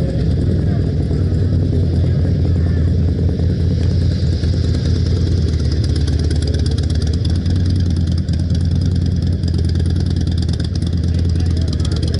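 Motorcycle engines running with a steady low rumble, with crowd chatter underneath.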